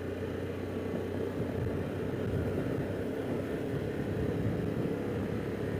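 Harley-Davidson Pan America's 1250 cc V-twin running steadily under way, mixed with tyre and wind rumble, a little louder from about two seconds in.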